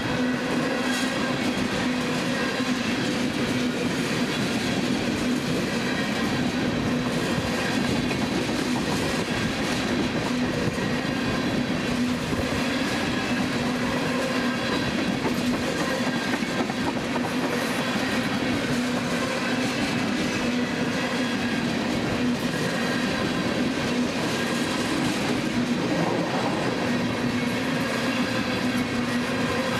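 Freight train of empty ethanol tank cars rolling steadily past, wheels clattering over the rail joints, with a steady hum from the running gear.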